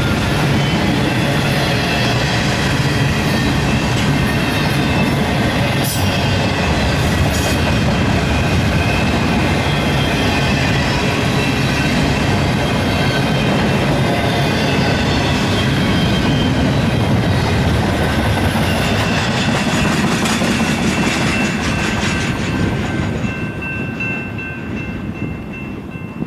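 Double-stack intermodal container train on well cars rolling past, a loud, steady rumble of wheels on the rails. About 23 seconds in the last cars go by and the sound fades as the train moves away, leaving a thin high ringing.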